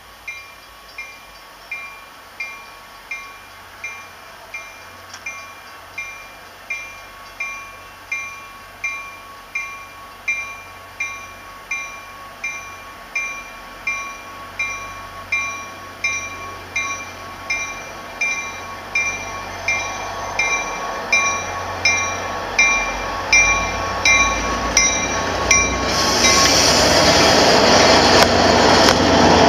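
A train approaching with its bell ringing steadily, about three strikes every two seconds, growing louder along with the low rumble of the train. About 26 seconds in, the train arrives alongside with a loud rush of noise that drowns out the bell.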